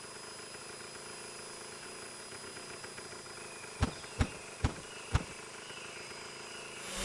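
Four short, sharp knocks, roughly half a second apart, a little before the middle of the stretch, over a faint steady hiss.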